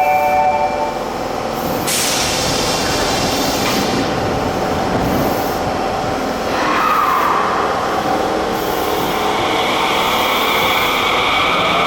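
Subway train leaving the platform. The last notes of a chiming departure melody fade about a second in, then air hisses from the brakes about two seconds in. The train's traction motors then whine, rising in pitch near the end as it gathers speed.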